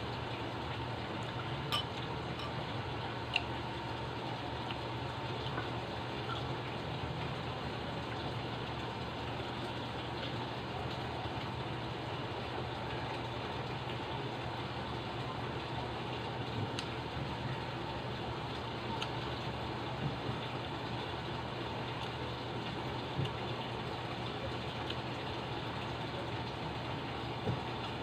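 Quiet eating at a table: a few light clicks and taps of tableware scattered over a steady low background hum.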